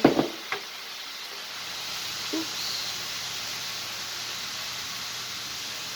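Onions, peppers and meat sizzling steadily in a frying pan, a constant hiss.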